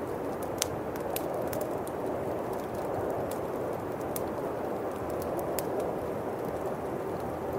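Bonfire crackling, with irregular sharp pops scattered throughout, over a steady rush of howling winter wind.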